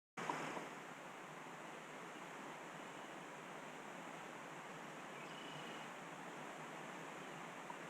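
Faint steady outdoor background hiss with no distinct events.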